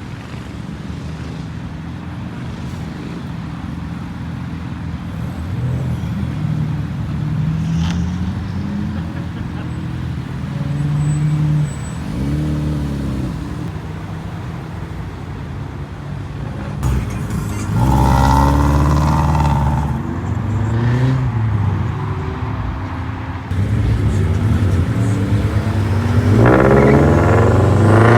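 Several car engines idling and revving, rising and falling in pitch as cars pull away one after another. Near the end a car accelerates hard, its engine note climbing.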